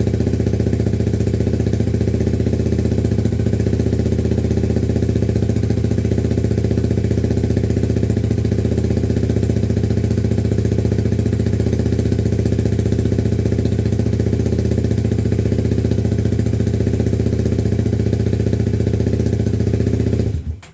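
2021 Honda Rebel 300's single-cylinder engine running steadily on a cold start after two months of sitting, then cutting off suddenly near the end.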